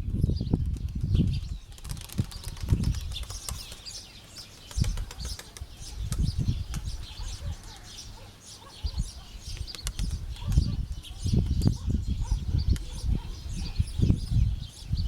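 Wind gusting against the microphone in irregular low rumbles, easing off for a few seconds in the middle, with birds chirping over it.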